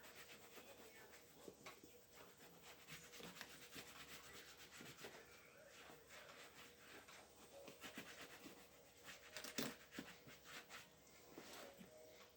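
Faint, rapid scraping and rubbing on a shoe during repair: a dense run of small scratchy strokes, with one sharper scrape about nine and a half seconds in.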